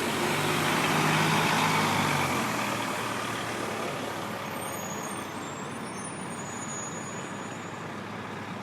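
A heavy road vehicle's engine passing on a city street: it grows loudest about a second or two in, then fades away over steady traffic noise.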